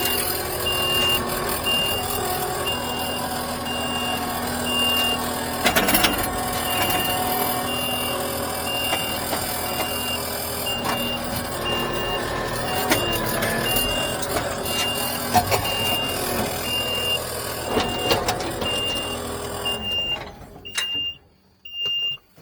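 A machine's reversing alarm beeping at a steady, even pace over a loud running engine and machinery noise. The engine noise drops away about twenty seconds in, and the beeping keeps going.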